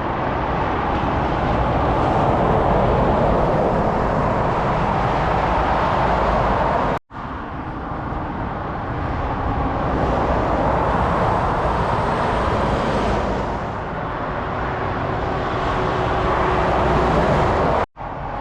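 Steady roar of fast motorway traffic, lorries and cars passing with heavy tyre noise. It cuts out for an instant twice, about seven seconds in and near the end.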